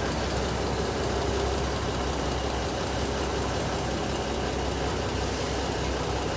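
Diesel engine of a Khlong Saen Saep public passenger boat running steadily, a low, even drone.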